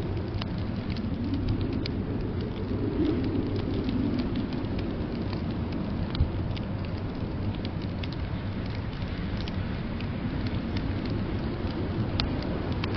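Wood fire in a fireplace crackling, with scattered small pops and a sharper pop about six seconds in, over a steady low rush of blizzard wind.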